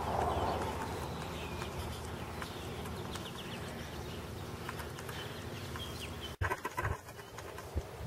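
Faint, short bird chirps over a steady outdoor background, with a brief break and a few short knocks about six and a half seconds in.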